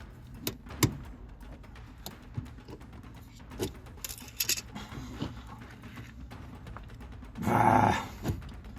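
Scattered clicks, clinks and knocks of hand tools on metal as the heater hoses are worked off, with one louder, short rough sound near the end.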